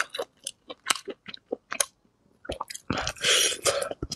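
Close-miked eating sounds of a person biting and chewing braised beef rib meat off the bone: quick wet smacks and clicks of the mouth, with a longer, louder stretch of mouth noise about three seconds in.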